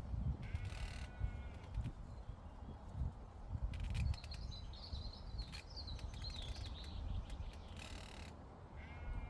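Bird calls in a meadow: a short call about half a second in and two more near the end, with a songbird's warbling trill in the middle. A low rumble of breeze on the microphone runs underneath.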